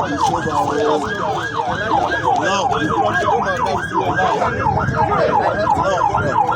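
Emergency vehicle siren on a fast yelp, its pitch sweeping up and down about three to four times a second; in the middle stretch a second siren overlaps it.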